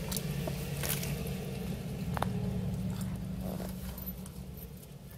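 Someone chewing pizza with soft wet mouth sounds and a few crisp clicks, over a steady low hum.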